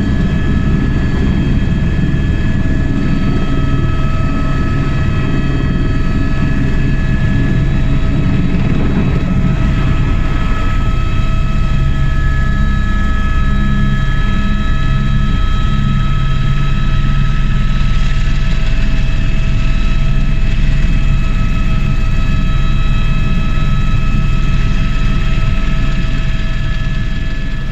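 Motorcycle running at a steady cruising speed, a continuous engine drone with dense low road and wind rumble and a few steady whining tones above it.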